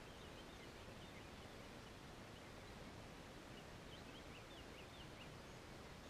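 Faint outdoor ambience: a low steady hiss with a small bird chirping far off, a short run of high notes near the start and another, busier run past the middle.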